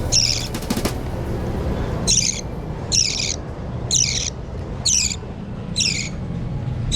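Budgerigar chick giving short, scratchy calls over and over, about one a second, as chicks do when begging to be hand-fed. A few light clicks come near the start, over a steady low hum.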